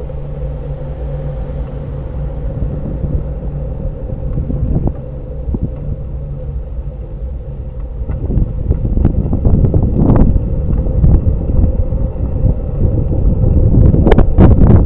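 Steady low rumble of wind and road noise on a moving microphone, with a faint steady hum under it. It grows louder and gustier about halfway through, with hard wind buffets near the end.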